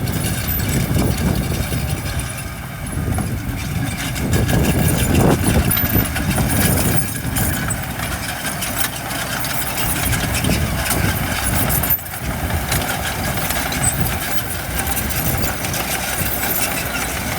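Heavy construction machinery's diesel engine running steadily, swelling louder about five seconds in.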